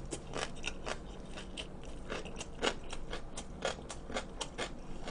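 A mouthful of naengchae jokbal (cold sliced pig's trotters) being chewed close to the microphone: irregular crunching clicks, about three or four a second.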